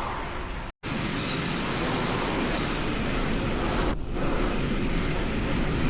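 Steady rushing wind and road noise on the microphone while riding a bicycle, with a brief drop to silence a little under a second in.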